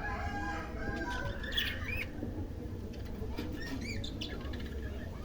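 Budgerigars chirping and squawking, with a few short chirps that rise and fall in pitch about two and four seconds in.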